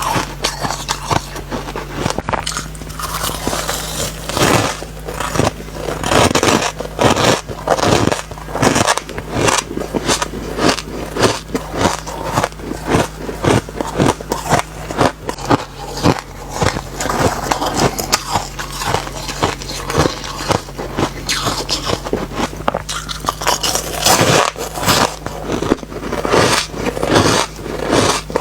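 Close-up bites and chewing of refrozen soft ice: a rapid, irregular run of sandy crunches, several a second, with some slightly squeaky bites.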